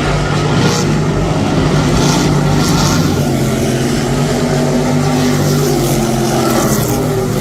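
Engines running steadily, a loud low drone whose pitch shifts only slightly.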